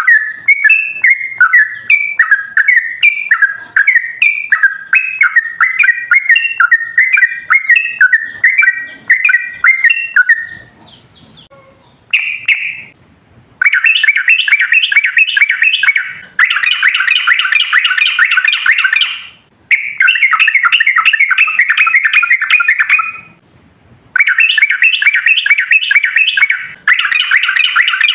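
Yellow-vented bulbul (trucukan) singing: a run of rich, bubbling notes for about ten seconds, then after a pause long, rapid chattering phrases (the prized 'ropel panjang' song), repeated with short breaks.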